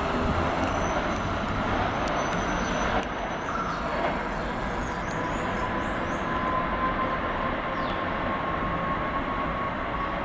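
PATCO Speedline rapid-transit train pulling away from the platform, a steady rumble of wheels on rail that eases a little about three seconds in. A thin high whine rises slightly in pitch through the second half.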